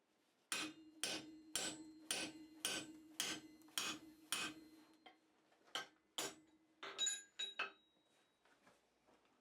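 Blacksmith's hammer striking steel on an anvil: eight even blows about two a second with a ringing tone carrying between them, then two more blows and a quick run of lighter taps.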